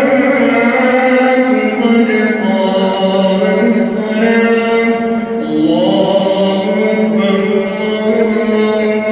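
A man's voice chanting Arabic prayer recitation in long, drawn-out melodic notes, stepping up in pitch about halfway through: the imam's recitation in congregational prayer.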